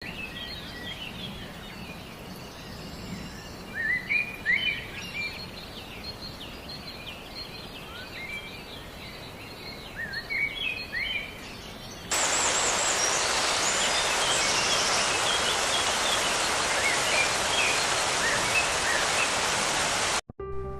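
Songbirds calling in forest, with short rising chirps and whistles. About halfway through, a sudden cut brings in a loud steady rushing noise like heavy rain or running water, with the birds still calling over it. It cuts off abruptly near the end.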